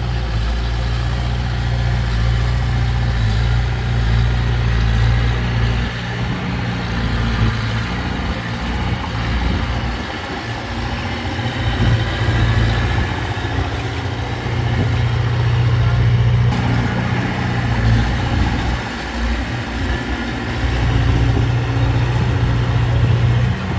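Heavy diesel engine of earthmoving machinery running steadily, its level rising and falling a few times.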